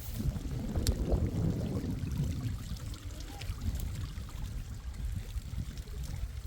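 Rainwater running and pouring, with a low rumble that is strongest in the first couple of seconds and a single sharp click about a second in.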